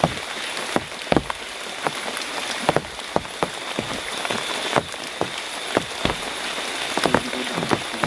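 Heavy rain falling steadily, with many irregular loud drops striking close by.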